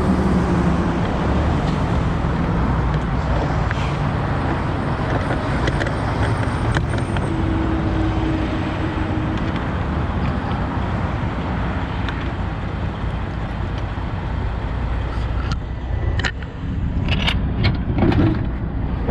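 Steady highway traffic noise, with vehicles rushing past. A few sharp knocks and clunks come near the end.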